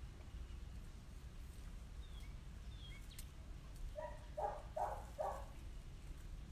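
Birds calling outdoors over a steady low rumble: a few faint short chirps, then a quick run of four louder calls about four seconds in.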